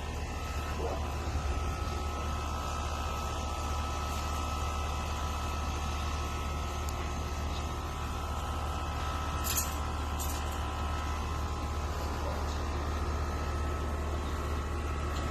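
A steady low mechanical hum with a faint steady higher tone above it, and two brief clicks about nine and ten seconds in.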